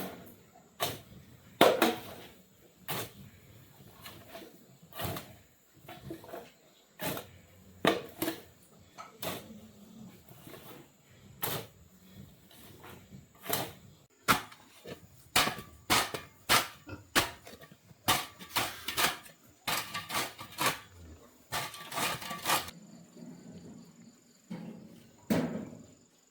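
A long series of irregular sharp knocks and thuds, about one or two a second, coming thicker and faster in the second half, as of hard objects or a tool striking.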